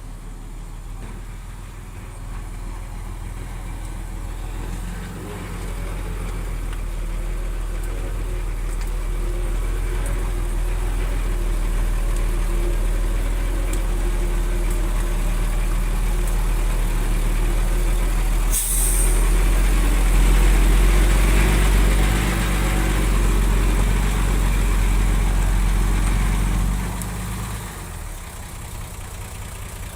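Heavy diesel engine of an earthmoving machine working under load. It grows louder over the first several seconds and eases back near the end, with a brief sharp hiss about two-thirds of the way through.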